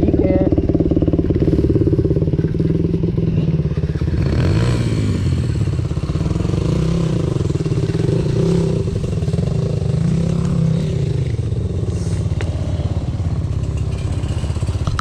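Dirt bike engine running continuously under way, its pitch rising and falling as the throttle opens and closes.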